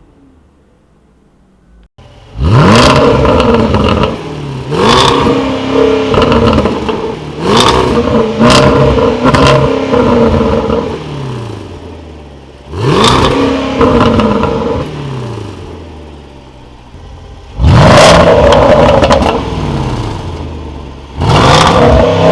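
Range Rover SVR's 5.0-litre supercharged V8 and exhaust, starting about two seconds in with a loud flare, then revved hard about eight times while stationary, each rev rising and falling back to idle, with sharp cracks from the exhaust. Really loud.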